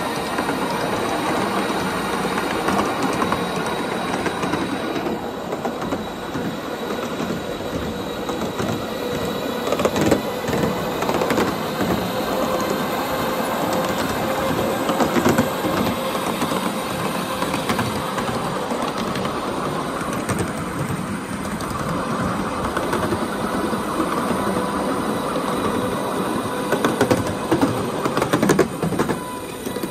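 Ride-on backyard railroad train rolling along its track, the steel wheels clicking over the rail joints with a steady whine underneath.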